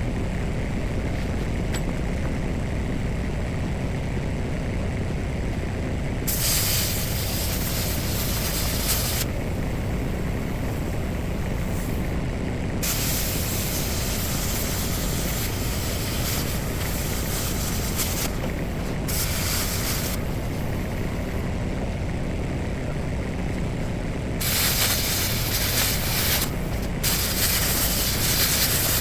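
A compressed-air tool hissing in bursts, switching on and off several times, each burst lasting a few seconds, over the steady low running of a machine.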